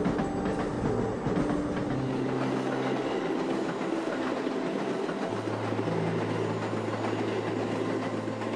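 Electric train running over the rail-yard tracks below, a steady rumble with wheel clatter over the rail joints. Soft background music with held low notes plays underneath from about two seconds in.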